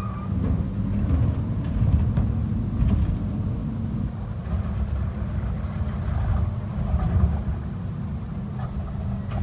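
Garbage truck engine running with a steady low rumble, swelling in loudness a couple of times, with a few light knocks.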